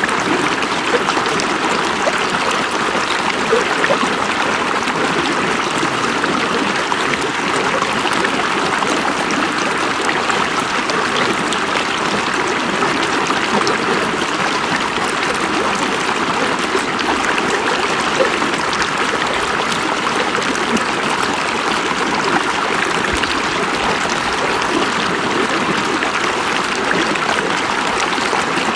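A river's water running steadily over rocks, an even rushing with small splashes and gurgles throughout.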